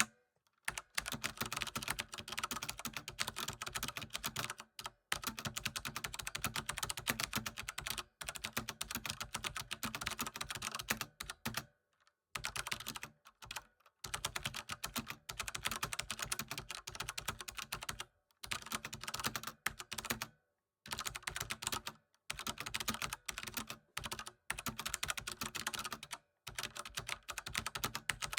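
Rapid typing on a computer keyboard: fast, continuous key clicks in runs of a few seconds, broken by brief pauses several times.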